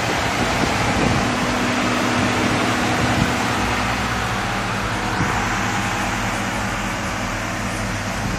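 LS1 V8 engine idling steadily, with the electric cooling fan running as a continuous rushing whir over the engine's low hum.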